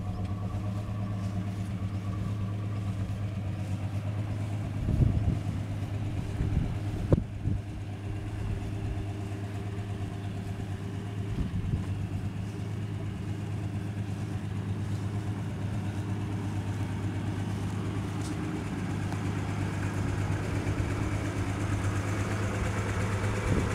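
Ford Falcon XY's 4.1-litre inline-six idling steadily, with a couple of brief knocks about 5 and 7 seconds in.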